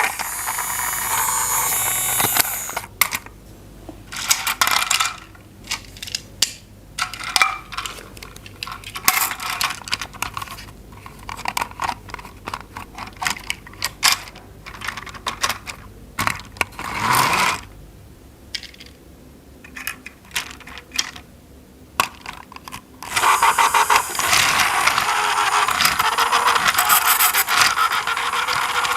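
Hard plastic toy parts being handled and clicked together, a run of scattered sharp clicks and knocks. A small battery toy motor runs with a steady whir at the start and again from about two-thirds of the way through.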